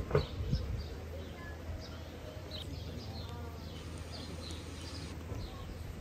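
Small birds chirping again and again over a low steady rumble, with a short thump right at the start.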